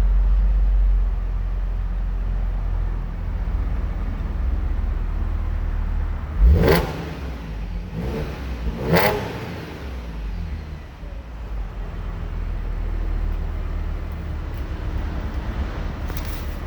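2015 Audi S5's supercharged 3.0-litre V6 with stock exhaust, idling after a cold start, given two short, light revs about two and a half seconds apart partway through, each rising and dropping straight back to idle.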